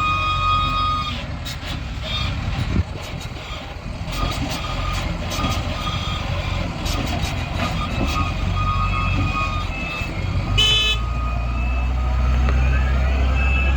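SEM 655D wheel loader working, its diesel engine running heavily, with its reversing alarm beeping on and off and a few sharp metallic knocks. A brief horn-like toot comes about two-thirds of the way in, and the engine revs up near the end.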